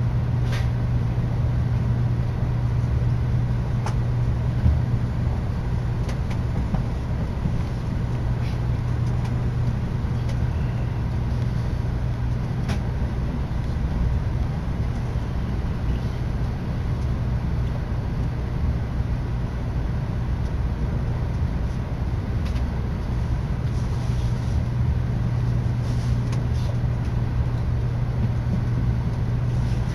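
Tokaido Shinkansen train running, heard from inside the passenger cabin: a steady low rumble and hum that holds at an even level.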